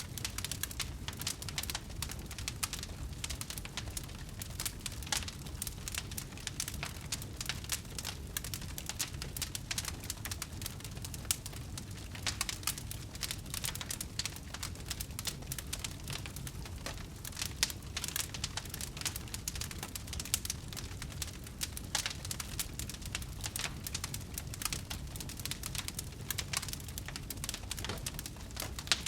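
Wood fire burning, with dense irregular crackles and pops over a steady low rumble of flames.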